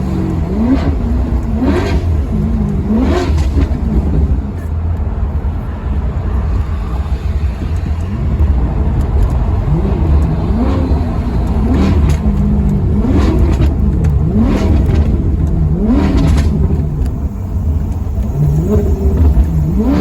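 Maserati Quattroporte's V8 engine revving, its note climbing sharply in pitch and dropping back again and again, in a run of quick rises in the first few seconds and another from about halfway on, over a constant deep rumble.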